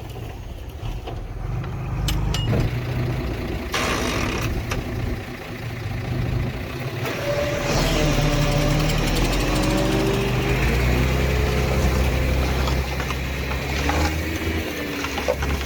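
Heavy diesel construction machinery running, a deep steady engine drone that grows louder about halfway through. From about halfway, a wavering squeal rides on top of it.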